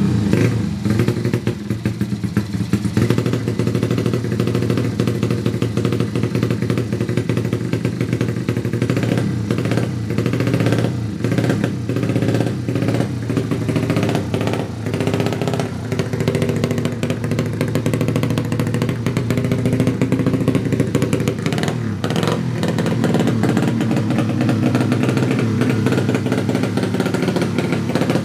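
Yamaha Jupiter 155 cc single-cylinder four-stroke drag-race engine running, its revs rising and falling.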